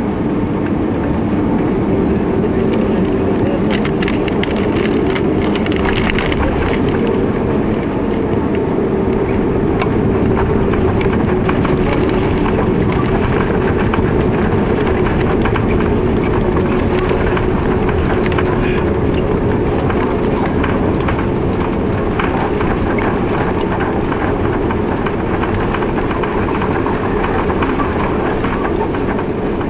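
Airbus A330-200 cabin noise during landing: a loud, steady rumble of engines and airflow with rattling, swelling slightly in the middle.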